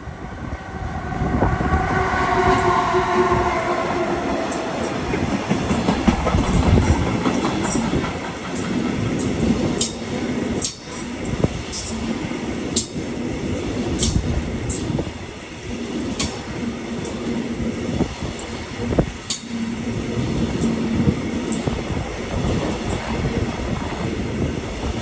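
A train passing close by, its horn sounding for a few seconds at the start and dropping slightly in pitch, followed by a loud continuous rumble of wheels on rail with sharp high clicks every second or so.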